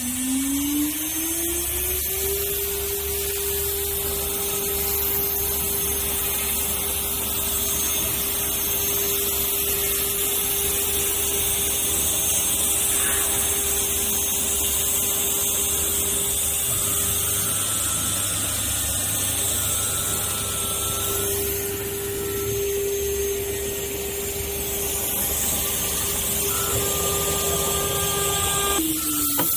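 CNC router spindle spinning up to speed with a rising whine, running at a steady high pitch over cutting noise, then spinning down near the end.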